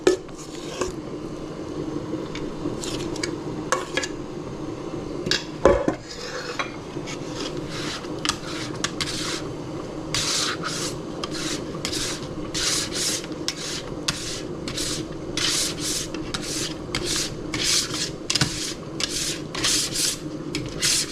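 A metal utensil scraping and stirring in a pot or pan in repeated rasping strokes, sparse at first, then about two a second from roughly ten seconds in. A single knock comes about six seconds in, over a steady low hum.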